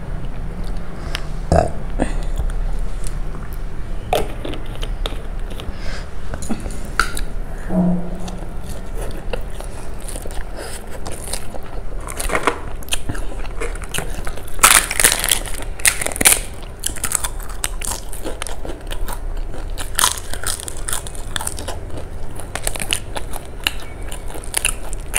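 Close-miked eating sounds of a person chewing rice with kadhi and pakoras: wet chewing and biting with many short sharp clicks, densest and loudest about halfway through.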